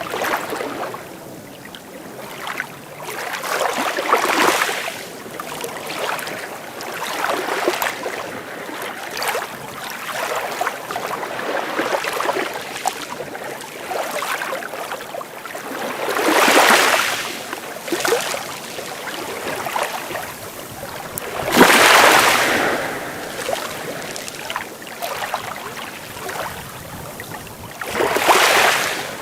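Sea waves breaking and washing onto a beach in repeated surges of rushing water. Three larger waves stand out: one a little past the middle, one about five seconds later, and one near the end.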